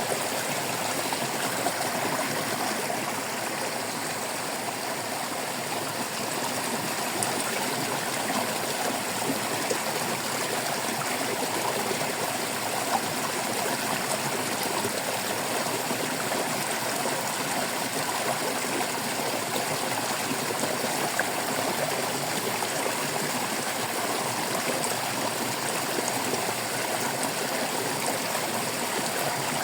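Water of a small stream running and babbling steadily over stones, a continuous even rush with fine gurgling detail and no breaks.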